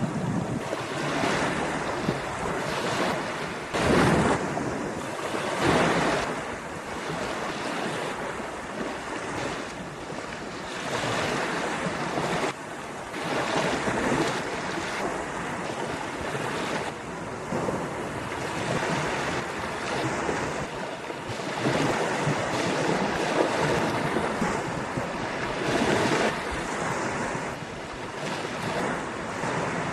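Ocean waves breaking and washing on a beach, a continuous surf roar that swells every few seconds, with wind buffeting the microphone.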